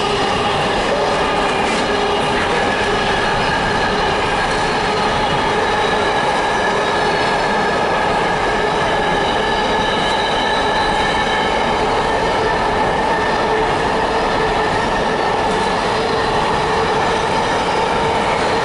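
Container wagons of an intermodal freight train rolling past, a steady loud noise of wheels on rail with several sustained squealing tones from the wheels.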